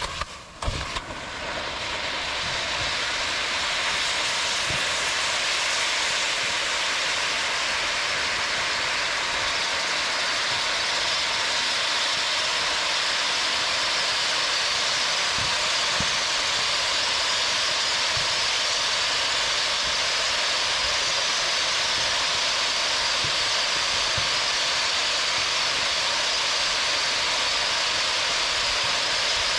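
Hypnotica firework fountain spraying sparks: after a couple of sharp clicks, a loud steady hiss builds over the first few seconds and holds, with a few faint pops mixed in.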